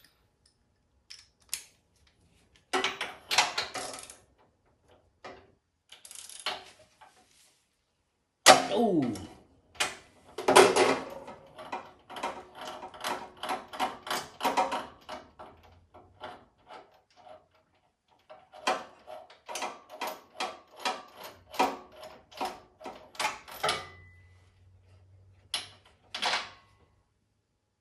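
Ratchet wrench with a spark plug socket clicking in runs of quick, even clicks as the snow blower's spark plug is worked loose, with a few metallic knocks of the tool between runs.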